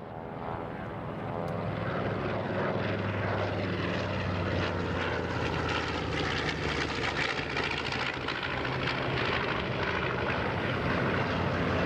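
Radial-engine propeller aircraft flying past at an air show, the T-6 Texans and the twin-engine AT-11 Kansan. It is a loud, continuous engine drone that builds over the first couple of seconds and then holds steady.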